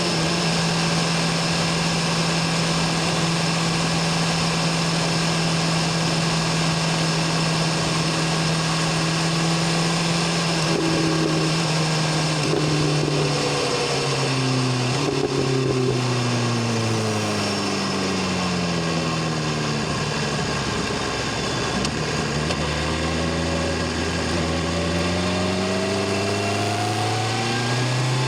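BMW S1000RR inline-four engine and exhaust running while riding. It holds a steady pitch at cruise, then drops in engine speed in several quick steps, like downshifts as the bike slows, and near the end the pitch climbs smoothly as it accelerates again.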